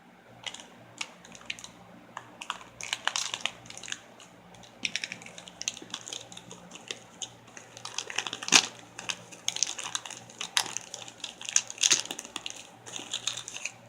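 Nature Valley biscuit pouch's plastic wrapper crinkling as it is handled and opened, in irregular crackles, the sharpest about eight and a half seconds in.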